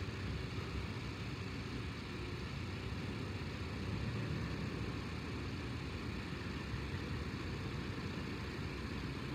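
Toyota 4Runner's engine running at low revs as it manoeuvres a boat trailer, heard as a steady low rumble.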